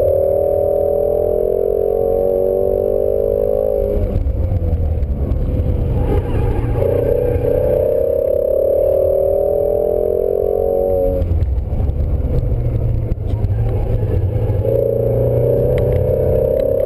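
2017 Ford Shelby GT350 Mustang's 5.2-litre flat-plane-crank V8, heard from inside the cabin, pulling under throttle with its note slowly rising. The note falls away at about four seconds, pulls again from about seven to eleven seconds, drops off once more and comes back near the end.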